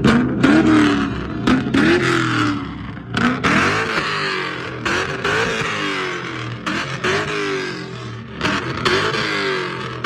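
Car engine revving again and again, its pitch rising and falling about once a second.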